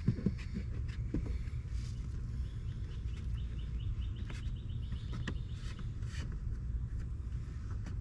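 Scattered light knocks and clicks as a rubber door gasket is pressed by hand into its channel around a car's door opening, over a steady low rumble. A short run of quick, high chirps comes about three seconds in.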